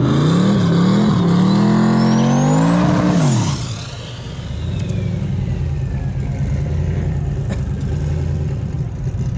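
Car engine accelerating hard, its pitch climbing for about three seconds with a thin high whine rising above it. Both then drop away sharply as the throttle eases, and the engine settles into a steady lower drone.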